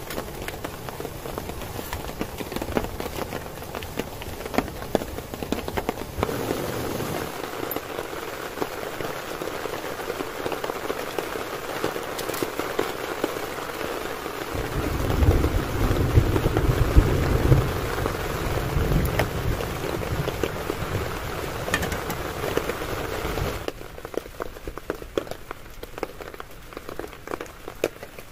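Heavy rain drumming on a tent, with thick, steady patter and countless sharp drop hits on the fabric. A deep low rumble comes in for several seconds in the middle. About three-quarters through, the whole sound drops suddenly to a softer patter.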